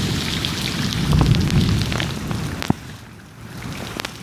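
Heavy rain pouring down, with a low rumble and scattered sharp drop hits. About two-thirds of the way in there is a sharp click, and the sound then drops much quieter.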